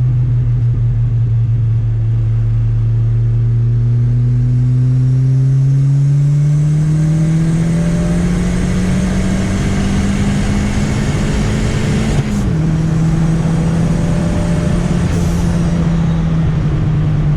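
Turbocharged Chevrolet Chevette engine pulling under steady load, its note climbing slowly as the car gains speed. About twelve seconds in the pitch drops suddenly with a short click, as at a gear change, then holds steady.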